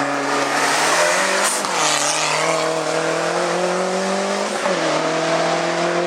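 Hillclimb race car engine accelerating hard, its pitch climbing and dropping sharply at two upshifts, about a second and a half in and again near the end.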